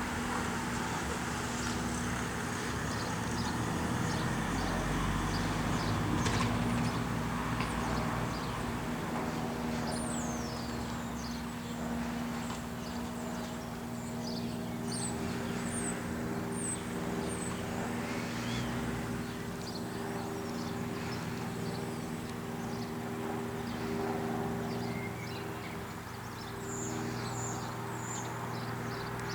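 Cessna 172 light aircraft's piston engine and propeller droning overhead, a steady low hum that is loudest about five to seven seconds in. Birds chirp now and then over it, with a run of short chirps about halfway through and again near the end.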